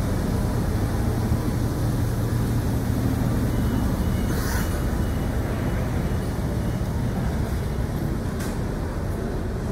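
Heritage passenger train at the platform: a steady low rumble and hum, with a short hiss about four and a half seconds in.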